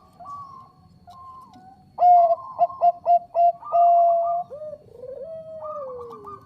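Zebra dove (Bangkok perkutut) cooing: faint trilled coos, then about two seconds in a loud run of short, quick coo notes ending in a long held note, followed by a quieter note that slides downward.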